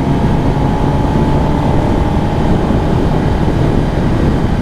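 2023 Kawasaki ZX10R's inline-four engine running at a steady cruise under wind rush on a helmet microphone while riding, with a faint steady whine for the first few seconds.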